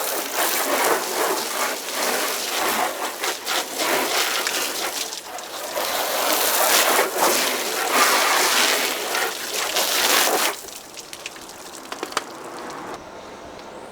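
Water spraying from a hose nozzle onto a car's body, surging and easing as the spray moves, then cut off abruptly about ten seconds in, followed by a few faint taps.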